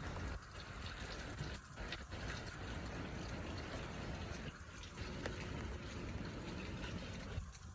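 Steady watery rushing noise of a slushy street in a wet snowstorm, with a few faint sharp clicks.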